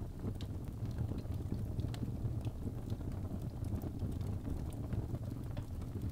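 Birch logs burning in a fireplace: a steady low rumble from the flames with scattered, irregular sharp crackles and pops.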